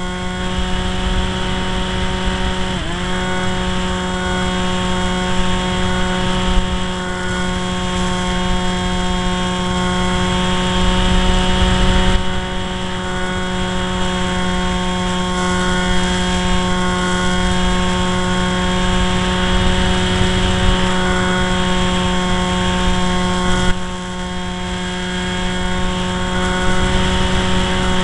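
Electric motor and propeller of a Firebird RC model plane whining steadily at a held throttle, with a brief dip in pitch about three seconds in. Wind buffets the microphone throughout with a low rumble.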